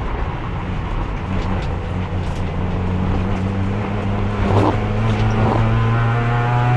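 Race car engine pulling under load in fourth gear, the only gear usable on its failing transmission, its pitch climbing slowly as the car gains speed. A couple of short knocks sound about halfway through.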